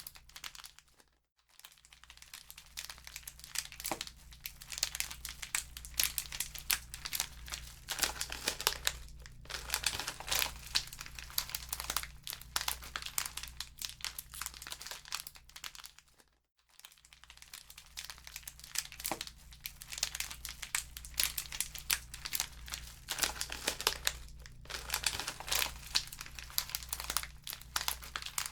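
Wood fire crackling in a fireplace: a dense, irregular run of snaps and pops over a low steady hum. The crackle fades out briefly twice, about a second in and again around the middle.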